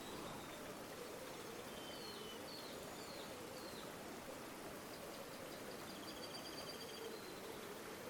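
Steady rush of a flowing river, faint throughout. Over it, small birds call: a few short chirps a couple of seconds in, then a rapid trill near the end.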